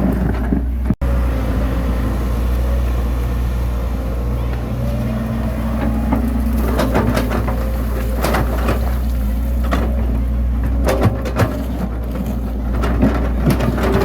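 Bulldozer's diesel engine running steadily with a low hum, with scattered sharp metallic knocks and clicks.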